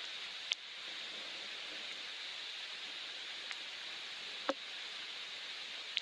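Soft rain falling steadily, a constant even hiss, with a few separate drops tapping sharply, the loudest about four and a half seconds in.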